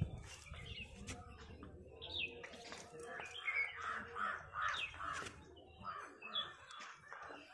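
Birds calling in the background, a run of harsh repeated calls through the middle.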